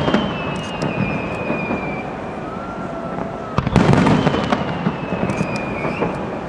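Aerial fireworks display: a steady crackle of shells with one loud burst about three and a half seconds in. Twice a long whistle slowly falls in pitch, once near the start and once after the burst.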